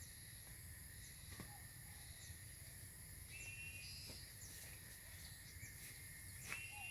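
Faint outdoor ambience with scattered short bird chirps and two brief level whistles, over a steady high insect hum.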